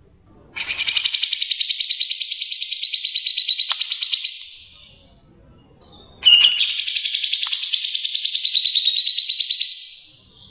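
A songbird giving two long, rapid, high-pitched trills, each about four seconds long. The first starts about half a second in and the second about six seconds in, and each fades away at its end.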